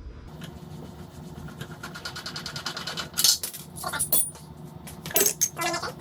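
Metal hand tools clinking and rattling as they are handled, with several loud sharp clanks in the second half, over a steady low hum.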